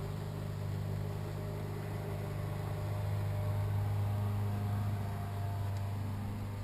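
Steady low hum of an idling engine, even and unbroken.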